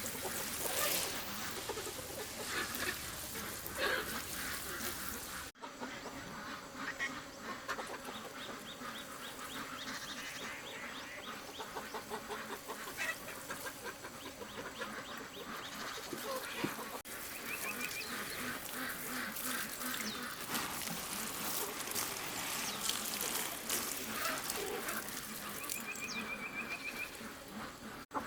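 Poultry calling, mostly ducks quacking: many short calls overlap throughout, with a brief trilled call twice in the second half.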